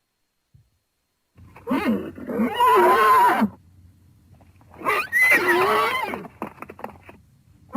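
Horse neighing twice, each whinny lasting about two seconds with a quavering pitch, the first starting about a second and a half in.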